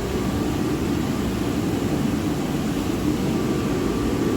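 Boiler burner firing steadily at mid-fire, a constant low rushing noise. A faint thin steady tone joins it a little over three seconds in.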